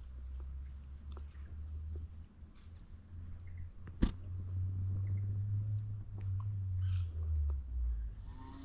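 Bird chirps and a high, wavering trill lasting about two seconds, over a steady low rumble, with scattered small ticks and one sharp click about four seconds in.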